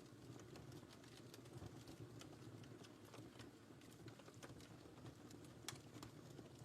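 Wood fire crackling faintly: scattered small pops and snaps over a low, steady rumble of the flames, with one louder pop near the end.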